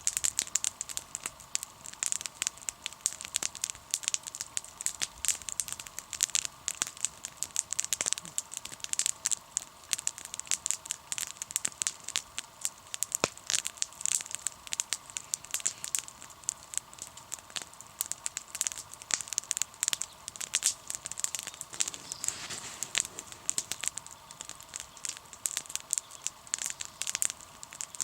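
Wood campfire crackling, with dense, irregular sharp pops and snaps.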